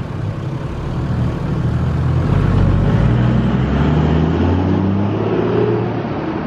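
Toyota Land Cruiser troop carrier pulling away and driving off, its engine note rising as it accelerates, then fading near the end.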